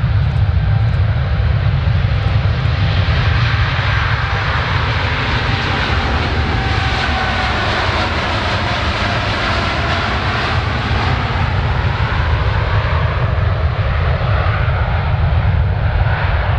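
A jet airliner passing by: its engine noise swells to a peak about halfway through and then fades, with whining engine tones that drop in pitch as it goes past. A steady low rumble runs underneath.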